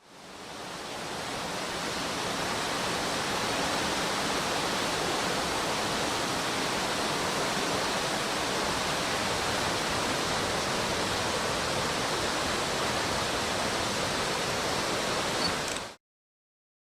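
A fast mountain stream rushing over rocks in rapids: a steady, even rush of water that fades in over the first second or two and cuts off suddenly near the end.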